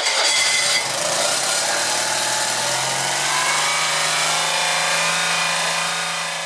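Citroën 2CV van's small air-cooled engine cranking on the starter, then catching and running steadily for a few seconds before fading near the end. It is struggling for fuel, with air in the fuel line suspected.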